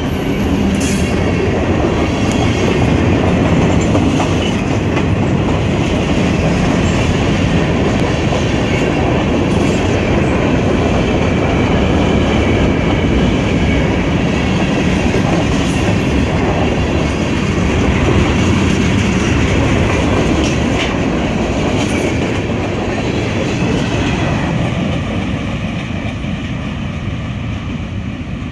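Freight cars of a passing train rolling by close at speed: a steady heavy rumble of steel wheels on rail with occasional sharp clicks, easing off near the end.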